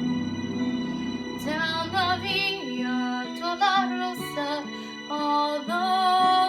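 A woman singing sustained notes with vibrato over an instrumental accompaniment track.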